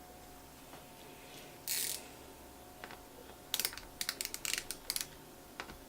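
Small screws in a laptop being tightened with a precision screwdriver: a short scrape, then a quick run of small sharp clicks about halfway through.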